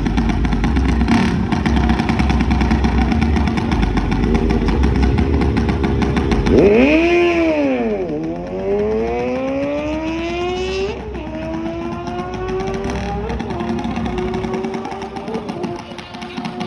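Small-block mini bike engines idling and rumbling at the start line, then about six and a half seconds in one revs sharply up and down at the launch, and the engine pitch climbs steadily as the bikes accelerate down the track, with brief dips twice along the way.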